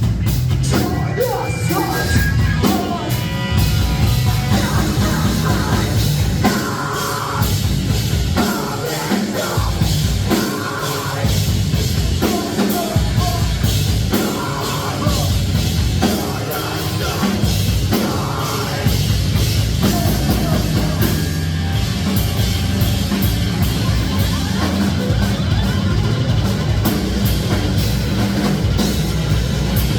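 Live rock band playing loudly, with distorted guitars, bass, a full drum kit and shouted, yelled vocals in a heavy, punk-metal style.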